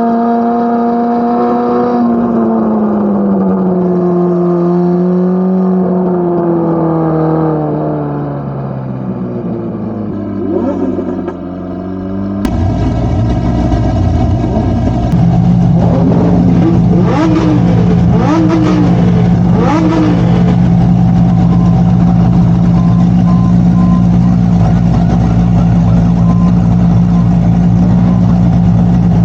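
Corvette C8 Z06's naturally aspirated flat-plane-crank V8 exhaust, its pitch swinging up and down with engine speed for several seconds before easing off. After an abrupt change about twelve seconds in, it holds a steady low drone, with a few brief rising and falling sounds a little later.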